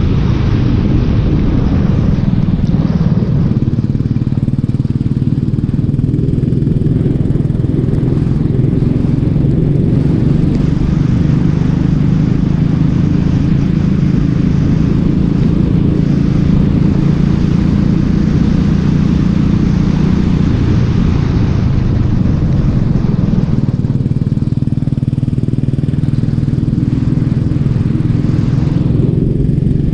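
Racing kart engine running hard under load, a loud, steady engine note that drops for a few seconds about two-thirds of the way through and then rises again as the throttle comes back on.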